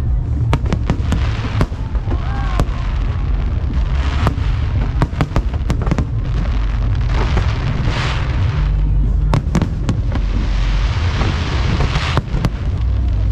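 Aerial fireworks display: a rapid series of sharp bangs from bursting shells over a continuous low rumble, with stretches of hissing crackle near the middle and toward the end.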